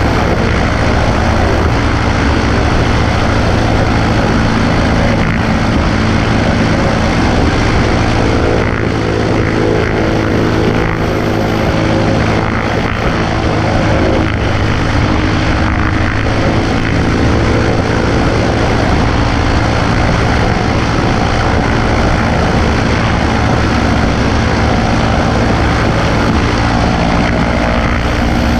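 Cessna 140A's piston engine and propeller running steadily, a loud constant drone.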